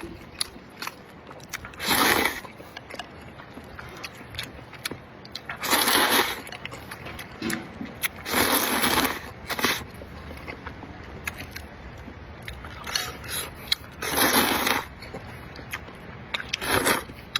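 Person eating noodles and spare ribs close to the microphone: five loud slurps, each about half a second to a second long, with chewing and small clicks between them.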